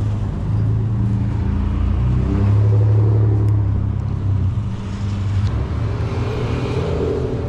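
Motor vehicle engine running close by, a low steady hum that shifts pitch a few times and swells briefly in the middle.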